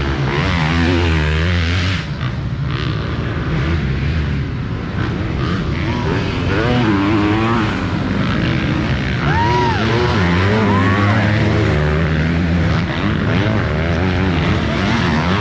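Motocross bike engines revving up and down during a race, with several bikes overlapping and a few sharp rev sweeps about two-thirds of the way through.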